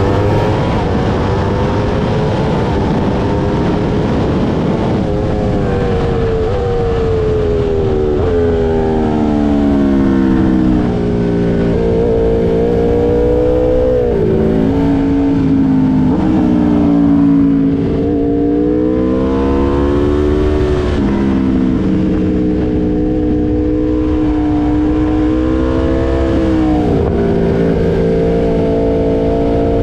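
Aprilia RSV4's V4 engine through an SC Project S1 titanium exhaust, ridden hard on track: the revs climb and fall continuously, with several sudden drops in pitch at gear changes.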